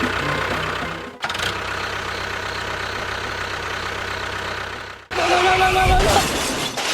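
Small engine running steadily with a fast, even pulse, heard in short clips cut together. About five seconds in a brief sound holding a few steady pitches, like a horn, comes in over it.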